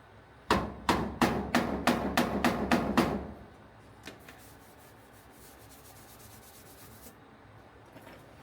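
A hammer tapping about nine times in quick succession, roughly three blows a second, then stopping; a faint tick and light rubbing follow.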